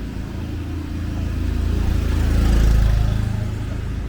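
A motor vehicle passing close by. Its engine hum and tyre noise swell to their loudest a little after the middle, then fade.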